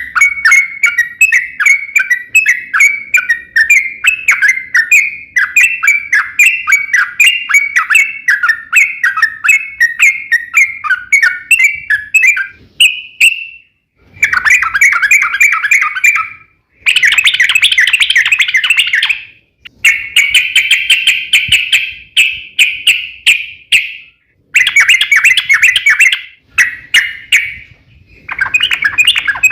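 Yellow-vented bulbul song: a long, fast run of chirping notes that goes on unbroken for about twelve seconds, then continues in phrases of two to five seconds separated by short, abrupt silences.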